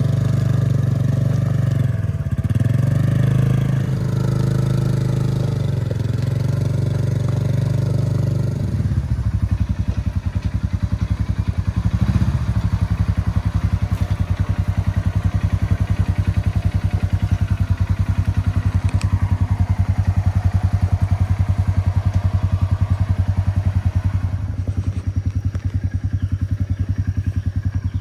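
UTV engine running steadily, then about nine seconds in dropping to a lower, evenly pulsing putter that carries on to the end.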